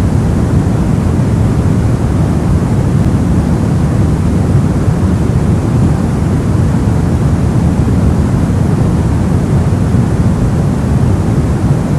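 Soft white noise for sleep: a steady, even rushing hiss weighted toward the low end, so it sounds deep rather than bright, with no change or breaks.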